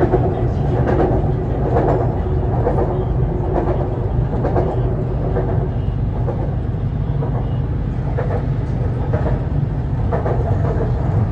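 BTS Skytrain EMU-B1 electric train running: a steady low rumble with uneven surges of rail and wheel noise.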